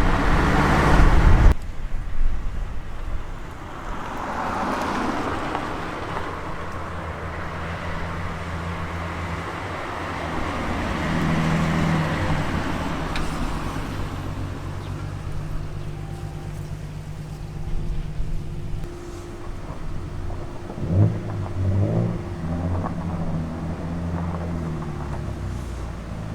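A car being driven: its engine runs steadily with the pitch shifting a few times, over road and traffic noise.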